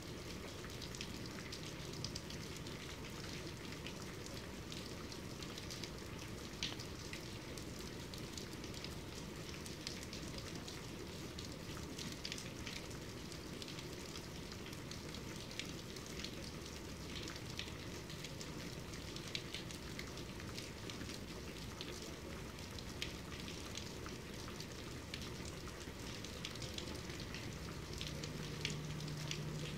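Steady medium-to-heavy rainfall: a constant hiss with many sharp, irregular drop taps on a surface.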